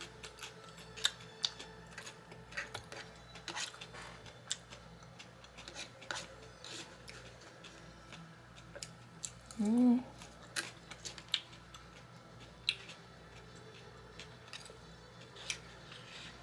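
Close-miked crunchy chewing of raw salad: irregular crisp crunches and clicks, with a brief hummed "mm" about ten seconds in.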